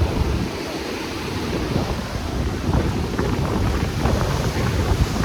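Strong wind buffeting the microphone in uneven gusts, with sea surf washing beneath it.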